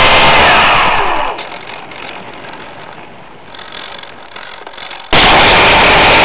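Battery-powered RC plane's electric motor and propeller heard from an onboard camera, very loud with wind rush and a high whine. The whine slides down as the throttle is cut about a second in, it runs much quieter for about four seconds, then cuts abruptly back in to full power about five seconds in.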